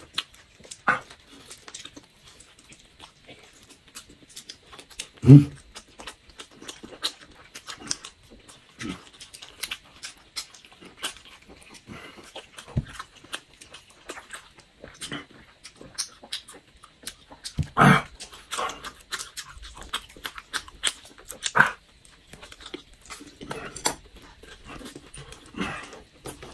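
Close-miked mouth sounds of two people eating grilled shrimp: wet chewing and lip smacks, heard as quick clicks throughout, with a few louder smacks about five, eighteen and twenty-two seconds in.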